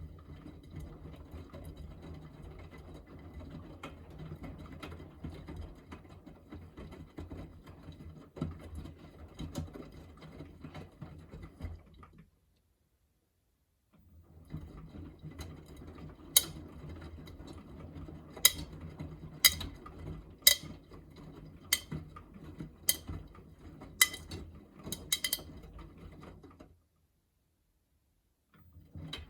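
Miele W3985 washing machine drum turning a cotton load in the main wash, with a steady low motor hum and the sound of wet laundry tumbling. In the second half there are sharp clicks roughly once a second as the drum turns.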